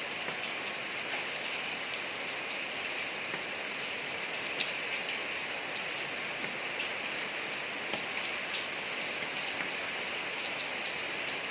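Steady rain falling on a street, an even hiss with scattered ticks of individual drops striking the surface.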